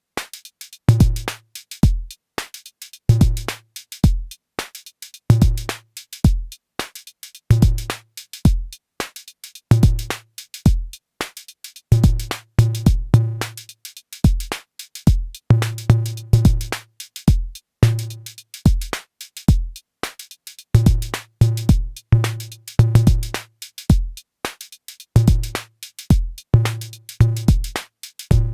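Arturia DrumBrute Impact analog drum machine playing a looping beat: deep kick hits, short pitched drum tones and quick hi-hat ticks. The pattern gets busier about halfway through, with more of the pitched hits packed together.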